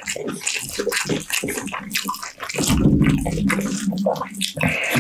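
Close-miked wet chewing and mouth sounds: many small sharp clicks and smacks, with a louder, lower sound for a couple of seconds in the middle. Near the end, hands take hold of a whole roast chicken to tear it apart.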